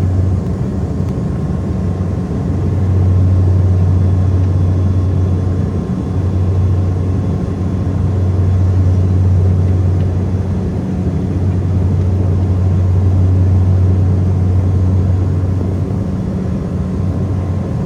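Saab 340's twin turboprop engines and propellers with a steady, loud low drone that swells and eases slightly a few times.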